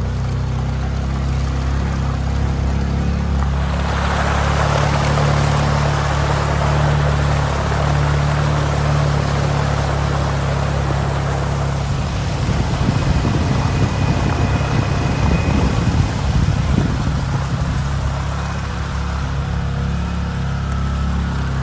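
Can-Am side-by-side's engine running steadily while towing a load. A rushing noise joins about four seconds in, and the low rumble turns rough and uneven for several seconds past the middle.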